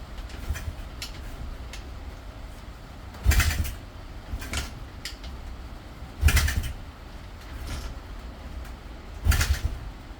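140cc pit bike engine being cranked over in four short attempts about three seconds apart, each a brief burst of turning over that dies away without the engine catching: it won't start even with the new CDI fitted.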